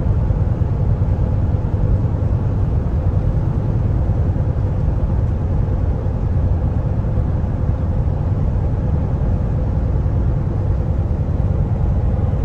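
Kenworth T680 semi-truck driving steadily at speed: a constant low rumble of engine and road noise.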